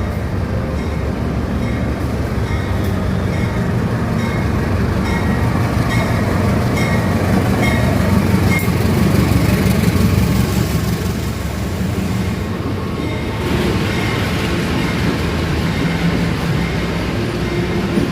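Sawunggalih passenger train running on the rails: a loud, steady rumble that swells about halfway through. A regular light clicking comes through it about twice a second.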